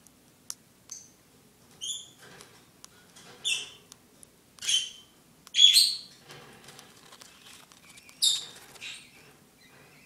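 One-month-old baby bird chirping as it is fed from a syringe: about seven short, high calls, the loudest about halfway through.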